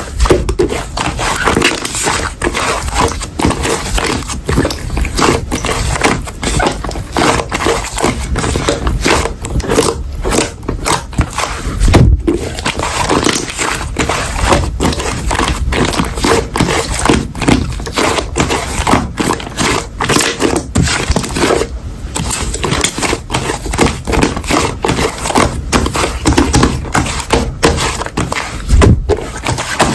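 Hands squishing, stretching and folding slime close to the microphone: a dense run of sticky crackles, pops and wet smacks that keeps going.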